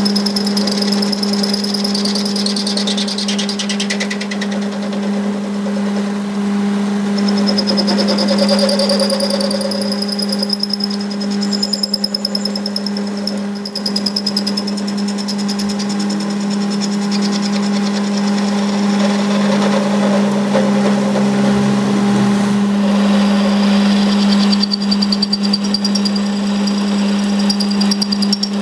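Workshop power machine running steadily with a constant low hum, and a high whine that comes and goes and wavers slightly in pitch.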